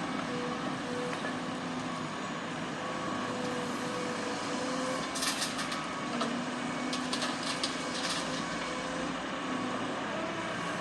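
Heavy dump truck diesel engines running steadily. A series of light clanks and rattles comes between about five and eight seconds in.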